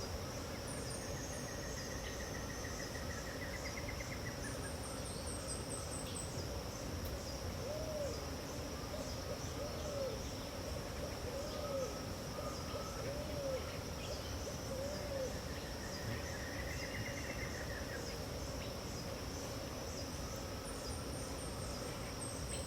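Pantanal dawn soundscape: a steady high-pitched insect buzz under a series of about six low hooting bird notes in the middle, roughly one every second and a half. A rising trill comes twice and thin high chirps come now and then.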